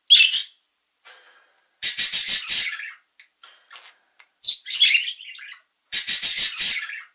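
A bird's shrill calls: a short call at the start, then bursts of rapid, stuttering squawks about two seconds in and again near the end, with another call in between.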